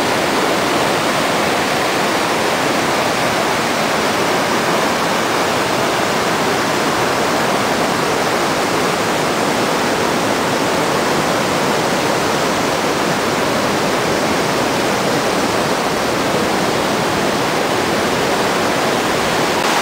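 Loud, steady rush of the Montmorency River's falling water, an even wash of noise without breaks.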